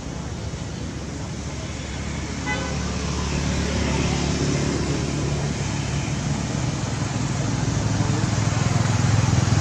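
A motor vehicle running close by, its steady low rumble growing louder, with a short high tone like a toot about two and a half seconds in.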